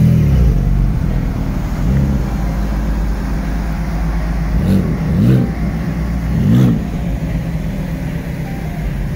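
A car engine is revved in short throttle blips, about five times, each rising and falling in pitch over a low engine rumble.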